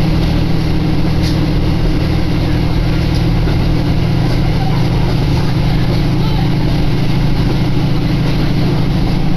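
Diesel railcar running along the track, heard from inside the car: a steady engine drone with rail and wheel noise.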